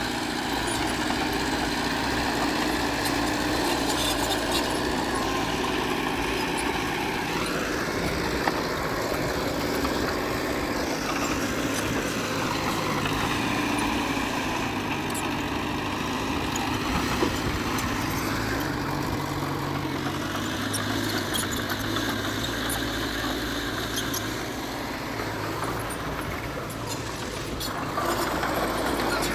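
Diesel engine of a Komatsu D20P crawler bulldozer running under load, its pitch rising and falling several times as it is revved while working. It eases off for a few seconds and comes back louder near the end.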